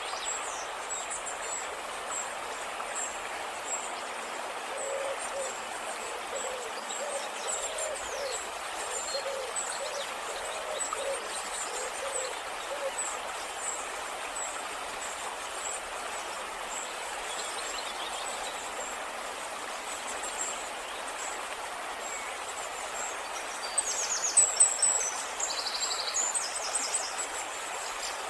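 Outdoor nature ambience with birds calling over a steady background hiss. Short high chirps run throughout, a series of low repeated call notes comes in the first half, and a louder burst of high chirping comes about three-quarters of the way through.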